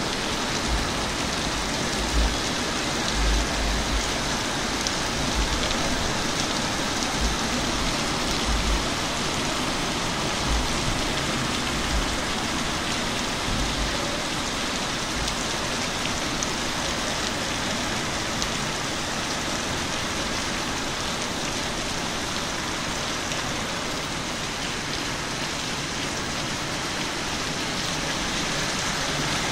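Steady rain falling on wet pavement and trees, an even hiss, with irregular low thumps during the first half.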